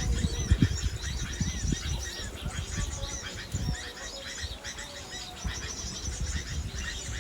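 Many small birds chirping and twittering, with short high calls overlapping one another. Low rumbling knocks are heard in the first couple of seconds.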